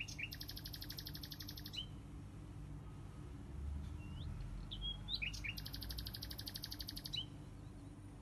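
A small songbird singing twice. Each phrase is a few short rising chirps followed by a rapid, evenly pulsed trill lasting about two seconds, and the second phrase comes about five seconds in.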